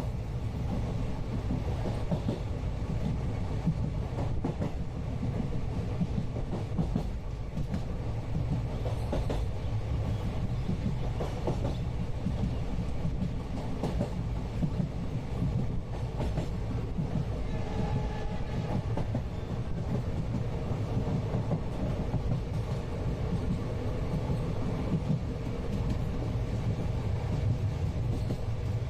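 Interior of an Indian passenger train on the move: a steady low rumble with the clickety-clack of wheels over rail joints.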